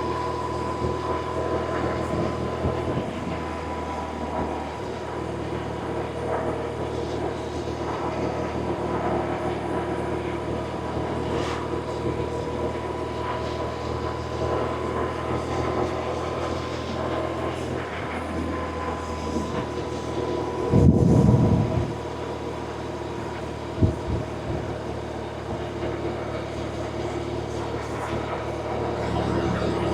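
BMW R1100RT's air/oil-cooled boxer twin engine running steadily while the motorcycle is ridden, with a brief loud low rumble about two-thirds of the way through.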